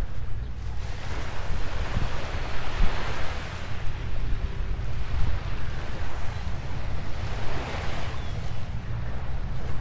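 Surf washing up on a sandy beach, swelling twice, under steady low wind buffeting on the microphone.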